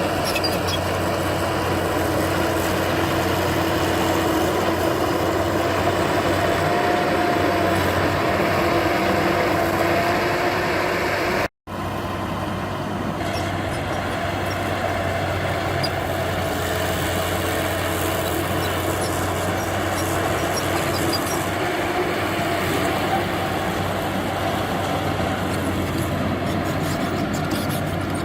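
Heavy diesel engine of earthmoving machinery running steadily under work, its pitch wavering slightly, broken by a split-second gap near the middle.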